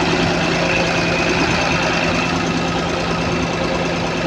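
Diesel engine of a Caterpillar 320D2 L excavator running steadily at close range, with a constant hum. The engine is running low on RPM, which the mechanic sets out to raise by tightening the manual throttle cable.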